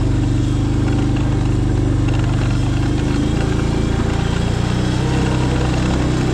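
An engine running steadily at an even pitch, with a slight change in its low note about two-thirds of the way through.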